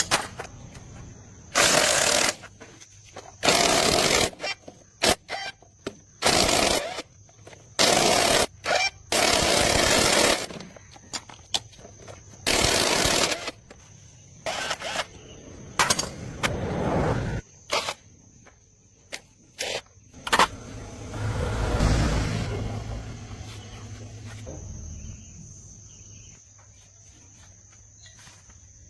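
A power tool run in repeated short, loud bursts, each lasting from a fraction of a second to about a second and a half, with uneven gaps between them. The bursts stop after about seventeen seconds, and a lower, steadier noise swells briefly a few seconds later.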